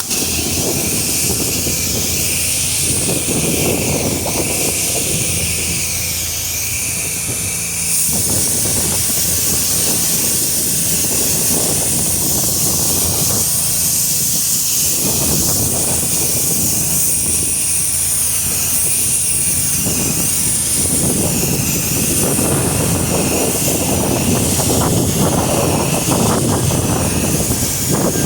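Gas-engine pressure washer running steadily while its wand sprays water on the fan setting: a loud hiss of spray over the engine's drone. The sound steps up a little about eight seconds in.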